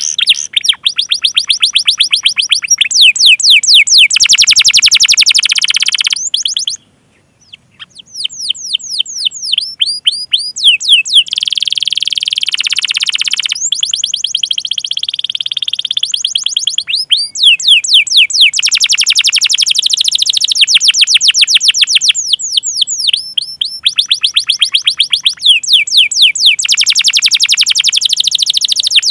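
Canary singing long rolling trills of rapid high 'cuit cuit' chirps, each trill a fast run of repeated sweeping notes lasting a few seconds, with short breaks between them and a brief pause about seven seconds in.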